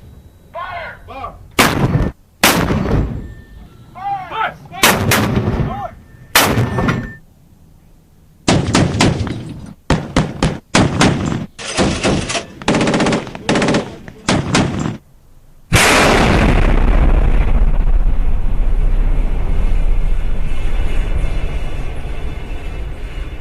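Gunfire sound effects: single shots with echoing tails, then several bursts of rapid fire. About sixteen seconds in, a loud continuous rumbling noise starts suddenly and slowly fades.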